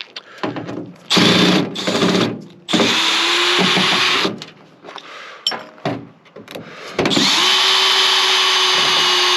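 Power drill-driver running in bursts, backing screws out of a microwave oven's casing: two brief runs, then a longer one, then a steady run of about three seconds starting about seven seconds in, with a held whine.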